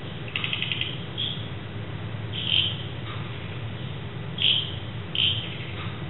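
Birds calling at night: a quick run of about six high notes just after the start, then short high chirps, the loudest about two and a half and four and a half seconds in, over a steady low hum.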